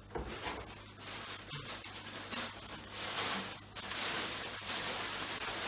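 Rustling and handling noise of packaging as the charging station is taken out of the box, irregular and busiest in the second half.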